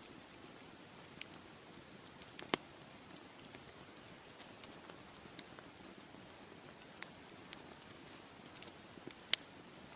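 Bonfire crackling: a steady low hiss of burning with sharp pops scattered every second or two, the loudest about two and a half seconds in and near the end.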